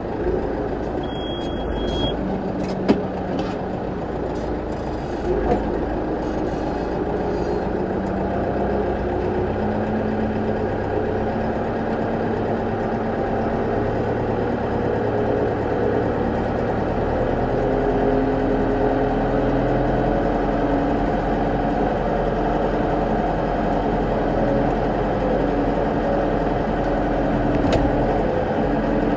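New Holland tractor's diesel engine running steadily under load while it drags a raised log, with a couple of sharp knocks in the first few seconds and the engine getting a little louder in the second half.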